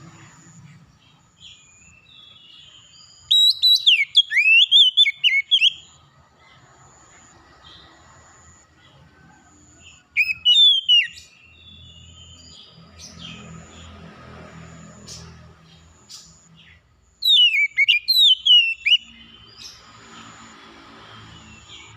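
A songbird sings loud, rapid whistled phrases in three bouts of a second or two each, with quick sweeps up and down. A faint high note repeats about once a second throughout.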